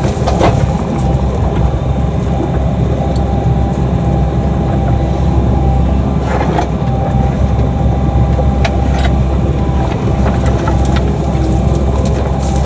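Mini excavator's diesel engine running steadily under work, with a few sharp clicks and knocks from the machine or its bucket.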